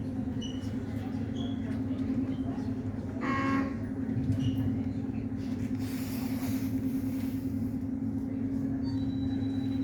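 Steady low machinery drone of a large car ferry, with a brief pitched tone about three seconds in and a short rise of hiss a few seconds later.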